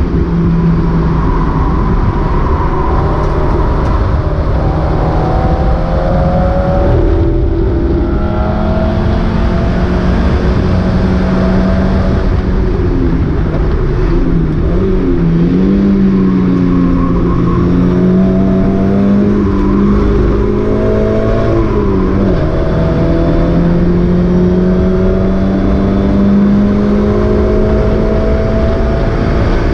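Mazda MX-5 race car's four-cylinder engine heard from on board at racing speed, its note climbing and falling as the car accelerates and lifts, with a sharp drop about two-thirds of the way through. Constant wind and road noise runs under it.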